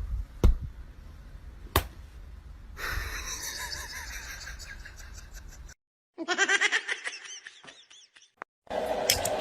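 A couple of sharp knocks, then a person laughing in quick repeated breaths.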